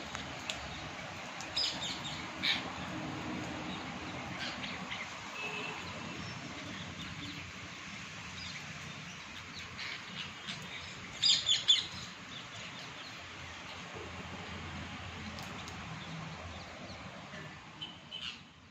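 Parrots giving short, scattered chirps and calls over a steady background hiss, with the loudest burst, a few quick calls, about eleven seconds in.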